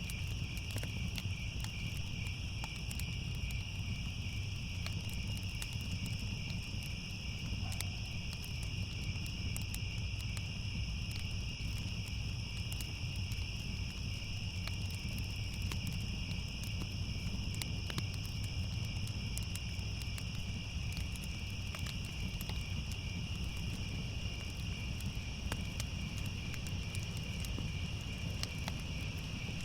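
Crickets chirping in a steady, unbroken night chorus, over a fireplace fire crackling with scattered sharp pops and a low steady rumble.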